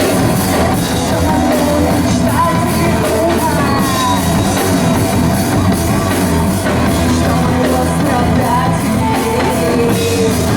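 A rock band playing live, with a singer's voice over the full band.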